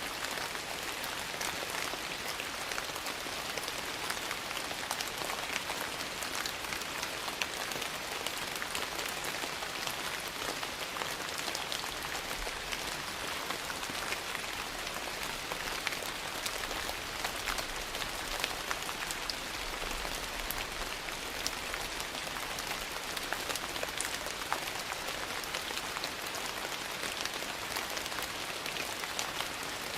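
Steady rain mixed with a crackling wood fire: an even hiss of rain with many small, sharp crackles scattered throughout.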